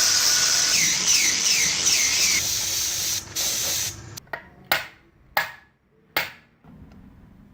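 A loud, steady hiss with faint, repeated falling chirps in it, stopping about four seconds in, followed by four sharp knocks, each dying away quickly.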